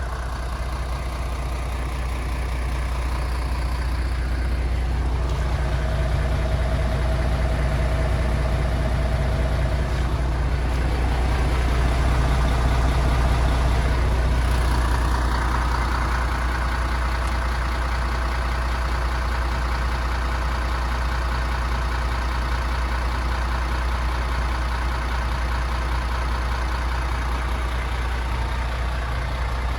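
MAN TGX 26.470 truck's 470 bhp six-cylinder diesel engine running steadily, likely at idle, with a deep even hum that swells slightly about halfway through.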